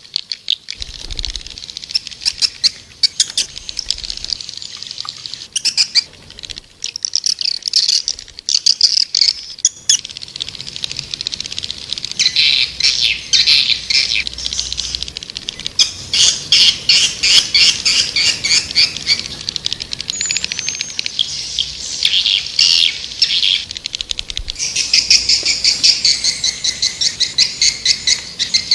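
Swiftlets calling: dense, rapid trains of high-pitched twittering chirps, one run after another. This is the kind of swiftlet call recording played to lure swiftlets into nesting houses.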